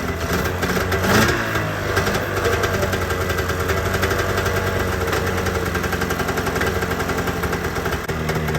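ZL550 snowmobile two-stroke engine running at a steady idle, with a short blip of revs about a second in.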